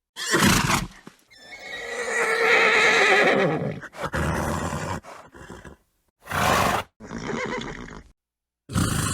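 Horse sounds: a short snort, then a long whinny with a quavering pitch, then several more short snorts and blows.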